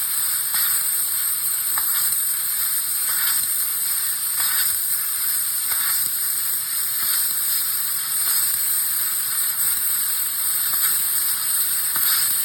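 A 5 kW fibre laser cutting 3 mm 304 stainless steel with compressed-air assist gas: a steady hiss and sizzle with a constant high whine above it, and brief louder flares about every second or so.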